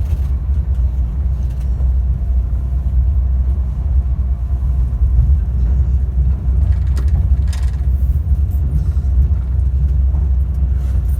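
Class 390 Pendolino electric train running, heard from inside the passenger saloon: a steady low rumble from the wheels and the Alstom traction motors beneath the floor.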